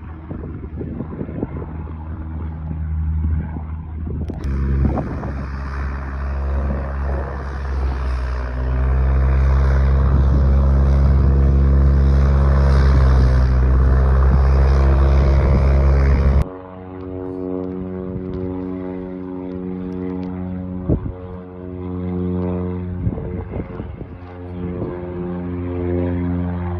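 Small propeller airplane's engine running, a steady hum with many overtones. It grows louder with a rushing hiss from about four seconds in, is loudest around the middle, then drops abruptly about two-thirds of the way through to a quieter hum.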